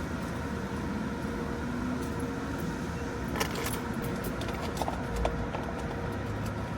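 Car engine running steadily, heard from inside the car, with a few short clicks and rattles about halfway through.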